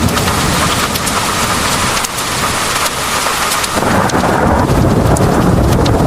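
Heavy rain pouring steadily, with sharp individual drops striking close by. A low thunder rumble swells up about two-thirds of the way through.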